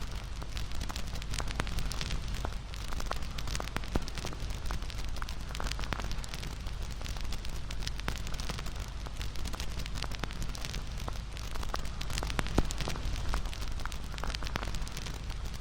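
Wood campfire crackling: frequent sharp pops and snaps over a steady low noise from the flames, with one louder pop about twelve and a half seconds in.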